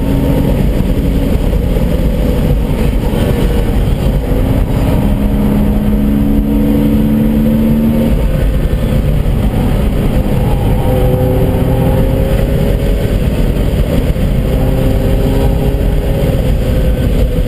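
Porsche Boxster S flat-six engine running hard at track speed, heard from inside the cabin. Its pitch holds and drifts slowly up and down over a steady low rumble.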